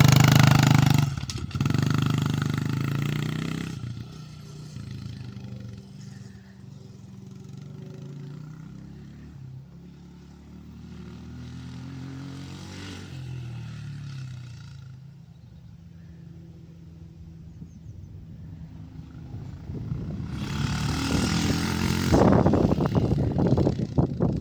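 Kawasaki 140R dirt bike engine revving loudly close by, then dropping to a quieter drone that rises and falls in pitch as the bike rides off. It grows loud again near the end, with rough revving as it comes back close.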